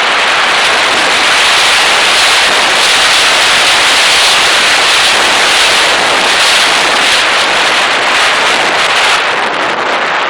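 Loud, steady rush of air over the onboard camera's microphone on a model airplane in flight.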